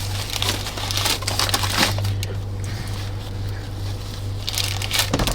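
Paper food wrapper crinkling and rustling in a few short bursts, over a steady low hum.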